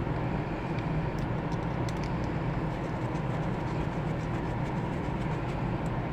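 A steady low rumble of background noise, with faint small clicks scattered through it.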